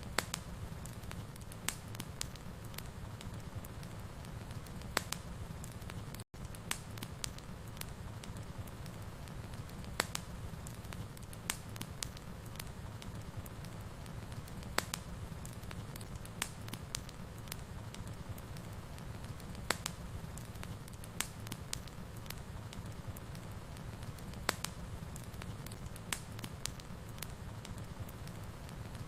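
Fireplace fire crackling, with scattered sharp pops over a steady low rumble of the flames. The sound cuts out for an instant about six seconds in.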